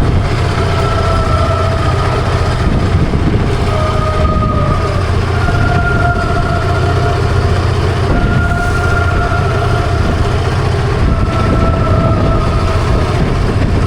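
Steady low rumble, like a boat's engine and rough water, with a faint melody of long held notes that step in pitch every second or two.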